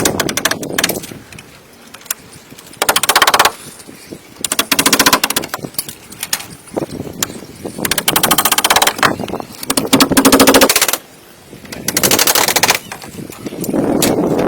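Power tool rattling in short bursts of about a second, six times, each burst a very fast run of clicks.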